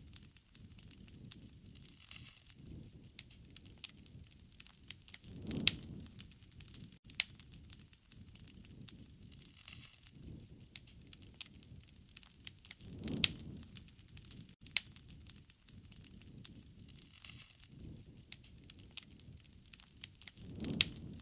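Wood fire crackling, with frequent sharp pops and snaps over a low, uneven rumble of flame, which swells briefly about every seven or eight seconds.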